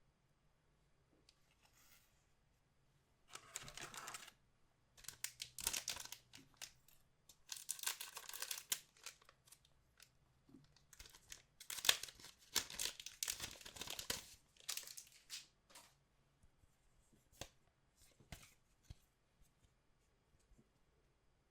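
Trading-card pack wrapper being torn open and crinkled, in several bursts of tearing and rustling, followed by a few light clicks.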